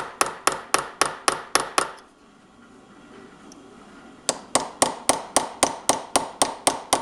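Small hammer tapping a punch against a worn-down screw head, sharp light taps about four a second, with a pause of about two seconds midway. The taps are working a seized blade-guide screw loose in the band saw's casting, and it is starting to turn.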